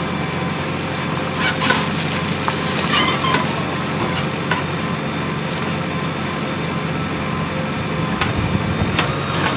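JCB 3DX Plus backhoe loader's diesel engine running steadily under work, with scattered sharp knocks and cracks from the digging.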